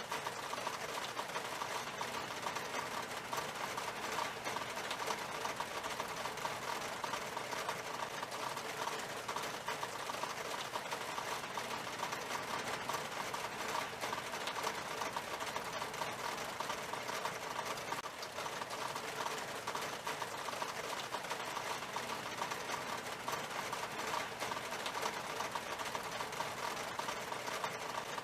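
Rain falling steadily on a glass window pane: a dense, even patter of drops.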